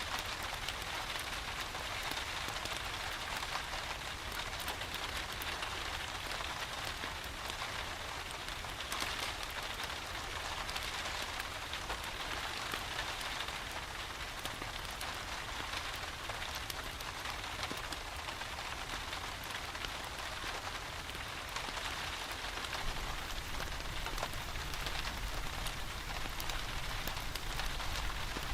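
Steady rain falling, an even hiss dotted with scattered drop ticks, over a constant low rumble.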